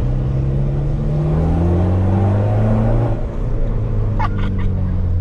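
SEAT Ibiza 6L 1.9 TDI four-cylinder turbodiesel with its resonator removed, heard from inside the cabin, pulling under load with its note rising for about three seconds. There is a brief dip just after that, then a steady run, with a few short sharp clicks about four seconds in.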